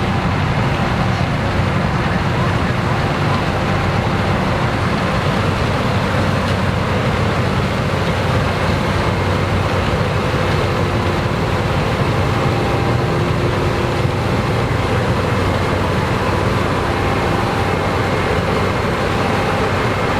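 Case IH AF10 combine with its 15.9-litre engine running steadily while harvesting corn: a continuous machinery drone with a few steady whining tones.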